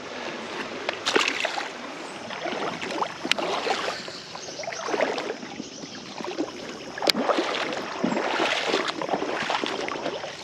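Water splashing and sloshing in a shallow creek, coming in irregular surges every second or two, with a few sharp clicks in between.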